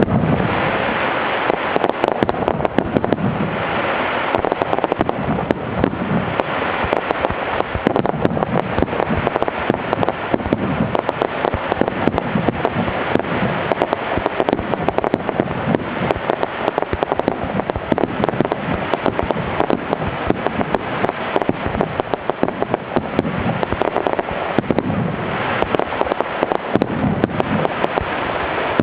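Aerial fireworks shells bursting in a rapid, continuous barrage: dense booms and crackling with no pause.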